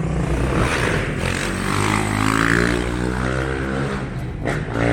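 Suzuki RM-Z450 single-cylinder four-stroke dirt bike engine running hard under throttle while the rider holds a wheelie. The revs stay fairly steady, then climb sharply about four and a half seconds in.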